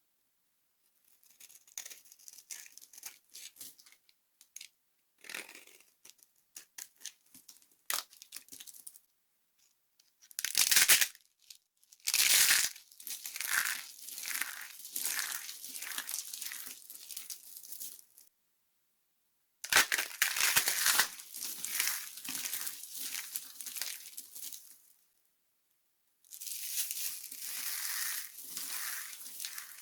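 Dry soap being crushed and crumbled, a dense crisp crackling and crunching. Light scattered crackles come first, then two sharp, loud crunches about ten and twelve seconds in start longer spells of steady crumbling, with abrupt silent breaks between the spells.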